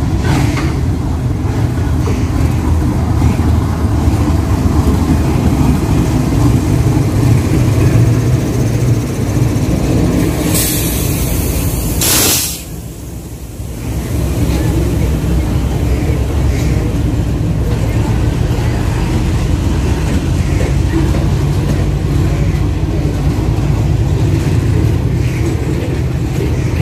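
Diesel locomotive running with a heavy, steady low rumble. About ten seconds in, a loud hiss of air lasts nearly two seconds, then the sound dips briefly before the rumble returns.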